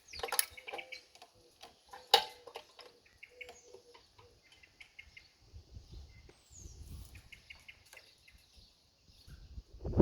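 Small birds chirping and calling, with two sharp knocks, one near the start and another about two seconds in.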